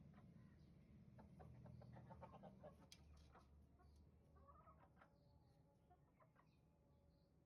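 Faint chicken clucking: a few soft, short calls.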